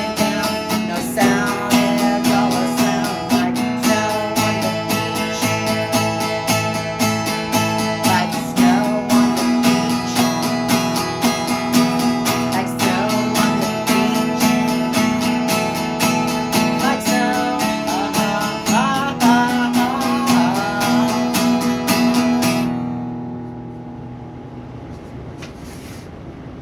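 Acoustic guitar music with quick, steady strumming, with faint wavering singing in places; about three-quarters of the way through the music drops away and only a much quieter sound is left.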